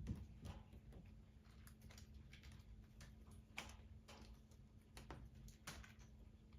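Wood fire crackling faintly in a fireplace: irregular small snaps and pops, a couple of them sharper, over a steady low hum.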